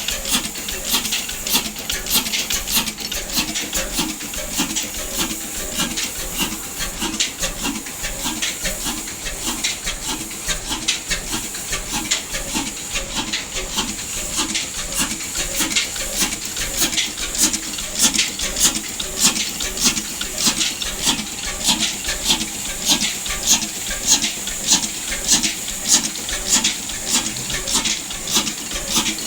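Large stationary diesel engine running steadily, its exhaust and valve gear giving an even, rapid knocking beat.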